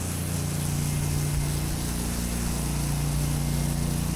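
Pressure washer engine running steadily with an even hum, under the constant hiss of the spray wand rinsing water onto grass.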